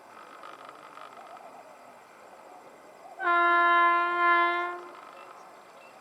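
Indian Railways WAP-7 electric locomotive's air horn sounding one steady blast of about a second and a half, starting about three seconds in.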